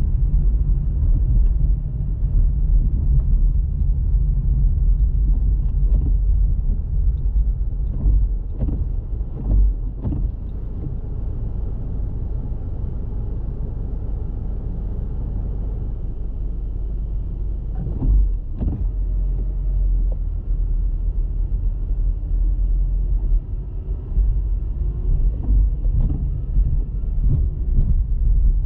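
Steady low rumble of a car driving, road and engine noise heard from inside the vehicle, with a few short knocks from bumps along the way and faint engine pitch rising and falling.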